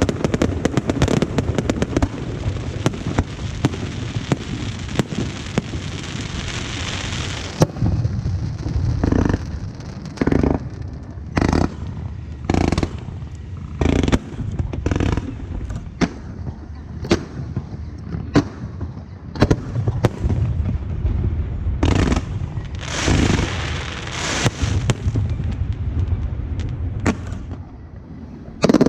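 Aerial fireworks going off: a dense crackling barrage for the first several seconds, then many separate sharp bangs a second or so apart over a low rumble of echoing booms.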